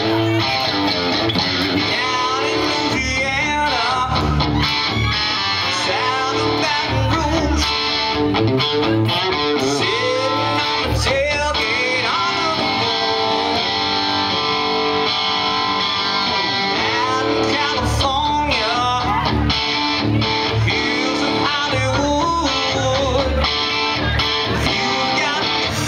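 Live band playing a song led by electric guitar, with strummed guitar and a steady bass pulse, heard amplified in a small club.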